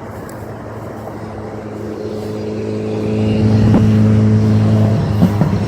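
A motor vehicle's engine droning at a steady pitch, growing louder over the first few seconds as it draws near, with a couple of faint knocks.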